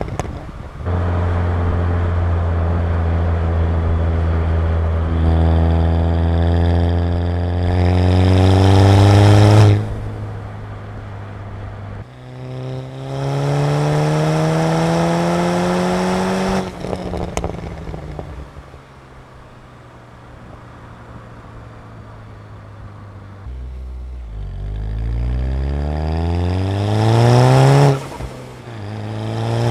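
Stage 2-tuned VW Golf MK6 GTI's turbocharged 2.0-litre four-cylinder accelerating hard, its engine note rising in pitch in three pulls. Each pull cuts off sharply: about ten seconds in, at about seventeen seconds, and again near the end. A quieter off-throttle stretch with falling revs sits between the second and third pulls.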